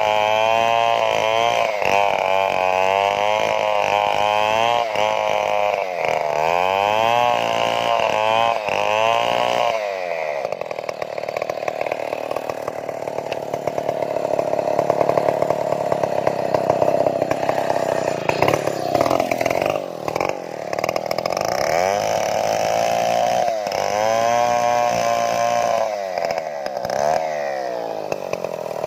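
Two-stroke Stihl chainsaw running at high revs while cutting timber. Its pitch rises and falls repeatedly for the first several seconds, holds steadier through the middle, and rises and falls again near the end.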